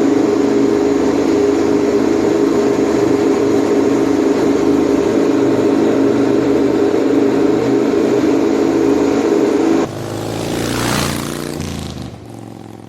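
Vehicle engine running at a steady, unchanging pitch for about ten seconds. It cuts off abruptly, and a rushing pass-by sound follows that swells and then fades away.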